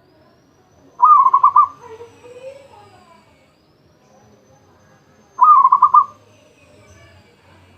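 Zebra dove (perkutut) cooing twice, about four and a half seconds apart: each call is a quick run of about six short, even coo notes lasting under a second.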